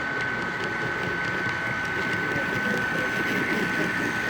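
Busy hall chatter of many people, with a steady high-pitched whine held throughout.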